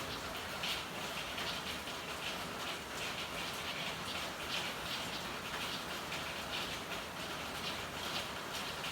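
Steady rainfall with an irregular patter of louder drops.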